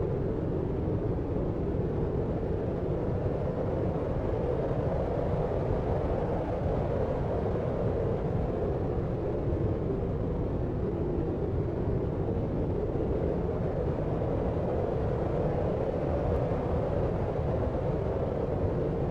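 Steady deep white noise, weighted toward the low end like brown noise: an even, unbroken rumbling hiss that never changes.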